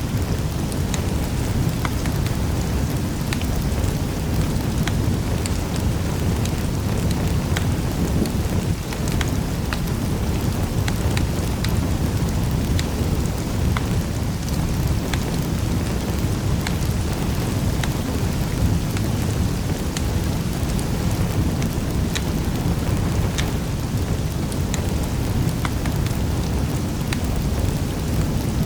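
Wood fire burning in a fireplace: a steady low rumble of flames with sharp crackles scattered irregularly throughout.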